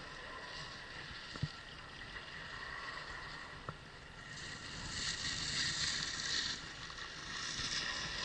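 Skis sliding and scraping over snow, with wind noise on the helmet camera's microphone; the hiss swells during turns from about halfway through. There is a single knock about 1.5 seconds in.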